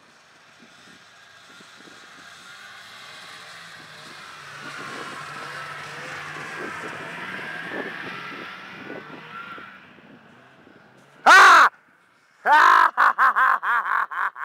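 An engine passing, swelling and then fading over the first ten seconds. Near the end, loud cawing calls: one, then a rapid string of about eight.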